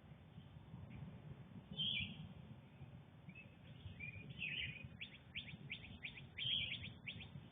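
Wild songbirds calling and singing: one call about two seconds in, more calls from about three seconds, then a quick run of short repeated notes, about three a second, near the end. A low steady rumble runs underneath.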